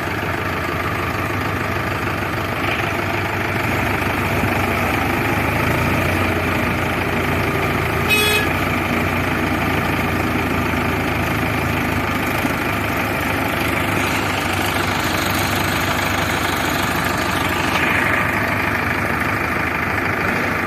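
Heavy diesel machinery engine running steadily under the strain of a mud recovery, with one brief sharp sound about eight seconds in.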